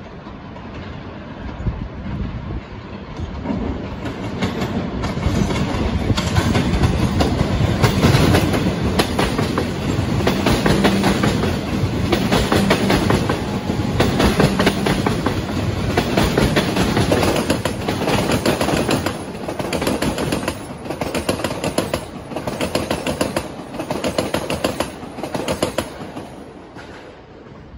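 Passenger train passing, its wheels clattering over the rail joints in a run of repeated clicks; it grows louder over the first several seconds and fades near the end.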